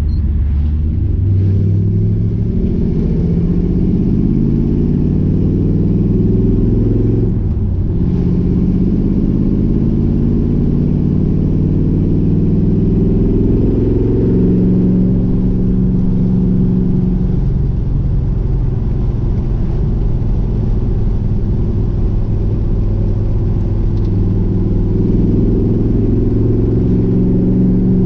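1970 Dodge Challenger's 408 cubic inch stroker V8 accelerating under load: the engine note climbs, drops at a gear change about seven seconds in, climbs again, then settles into a steady cruise with small swells of throttle.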